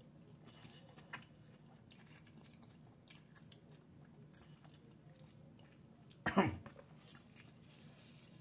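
A person chewing a bite of crispy fried chicken sandwich, faint with small crunches and mouth clicks, and one brief louder sound about six seconds in.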